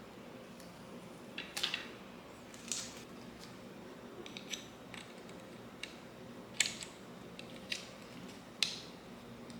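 Short, sharp clicks and snips of hand work, six or so spaced irregularly, over a faint steady hum.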